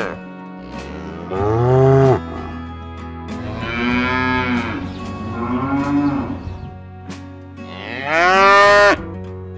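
Cows mooing: about four separate moos, each rising and falling in pitch. The last one, near the end, is the loudest.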